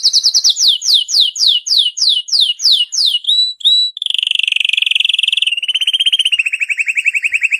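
Domestic canary singing: a run of quick descending whistled notes, about four a second, then two fast rolling trills, the second a little higher and running on past the end.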